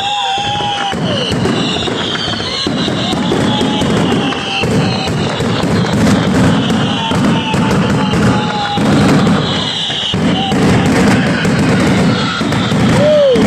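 Fireworks display going off continuously: rapid crackling bangs overlapping one another, with whistling fireworks gliding and falling in pitch, and a last whistle that rises and falls near the end.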